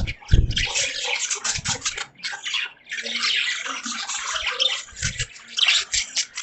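Caged budgies chirping and chattering over a dense, splashing water sound, with a few dull thumps.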